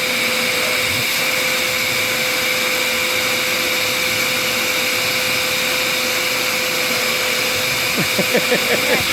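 Vacuum cleaner running steadily: a level motor whine over an even rushing hiss.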